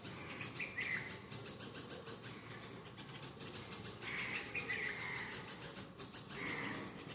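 Birds chirping faintly, with quick repeated chirps throughout and a few louder calls about a second in, around four to five seconds in, and near the end.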